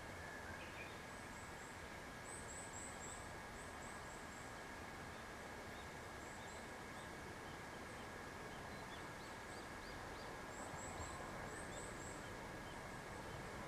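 Summer riverside ambience in a gorge: a steady rush of the river under a constant high insect drone, with many small, faint, high chirps from insects and birds scattered throughout.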